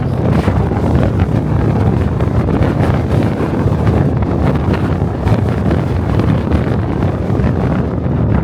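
Strong gusting wind buffeting the DJI Osmo Pocket 3's microphone: a loud, steady rumble of wind noise.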